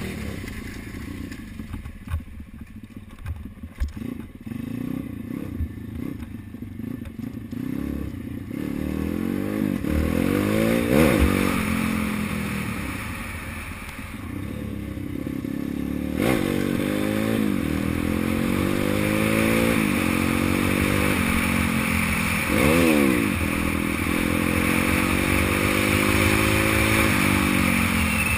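140cc dirt bike's single-cylinder four-stroke engine being ridden, its pitch rising and falling as the throttle is opened and closed. During the first third it runs lower, with clattering and knocks from the bike, then it revs harder with repeated climbs and drops, sharpest about a third of the way in and again near the end.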